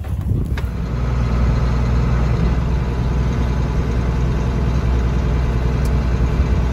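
Farm tractor's engine running at a steady speed, a deep, even hum.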